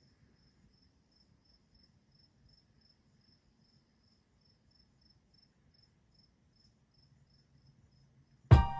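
An insect chirping faintly in an even, steady pulse, about three to four chirps a second. Loud music with a drum beat cuts in near the end.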